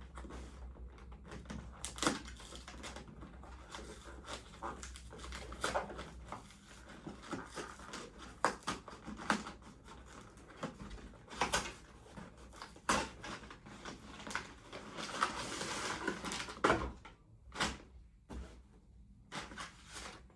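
Irregular clicks, taps and knocks of objects being handled, with a longer stretch of rustling about fifteen seconds in.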